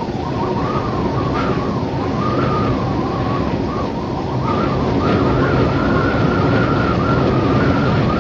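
Desert wind: a steady rushing with a thin whistling tone above it that wavers up and down in pitch.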